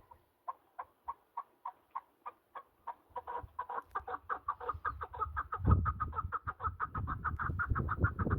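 Partridge calling a long run of short clucking notes that speed up steadily, from about two a second to a rapid chatter near the end.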